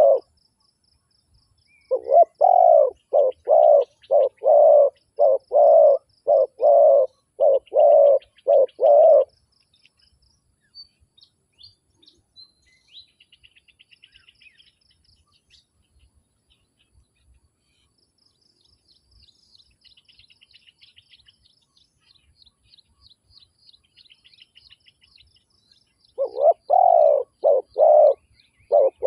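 Spotted dove cooing: a run of about a dozen low coo notes starting about two seconds in and lasting some seven seconds, then a long pause with only faint high chirps of small birds, and the cooing starts again near the end.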